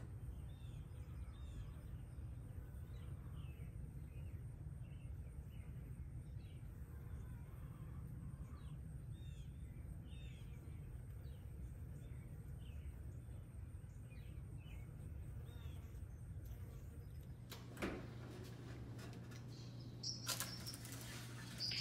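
Faint outdoor ambience: small birds chirping over and over above a low steady rumble. Toward the end the chirping stops and there are a couple of soft knocks.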